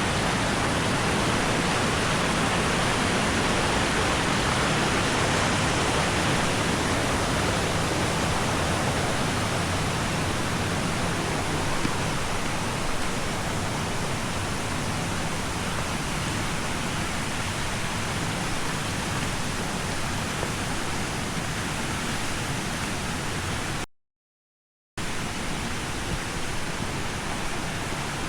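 Tall waterfall pouring steadily into its plunge pool, a constant rushing hiss of falling water. The sound cuts out completely for about a second near the end, then comes back.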